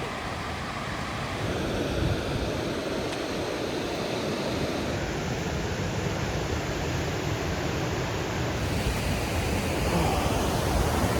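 Steady rushing of falling water, an even roar with no distinct events, growing a little louder about a second and a half in.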